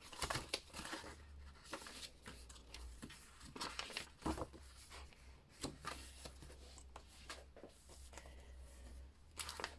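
Paper and card of a handmade journal being handled and its pages turned: faint, irregular rustles and soft taps.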